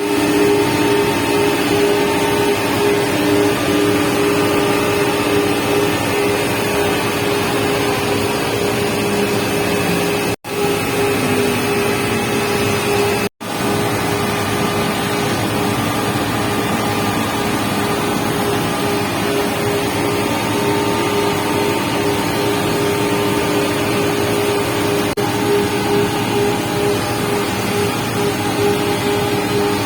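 Steady hum of an edging machine's electric motors running, with a few constant tones over a noisy rumble. The sound drops out for an instant twice, about ten and thirteen seconds in.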